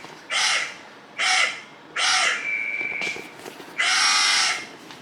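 A bird giving four loud, harsh cawing calls about a second apart, with a thin whistled tone held for about a second after the third call.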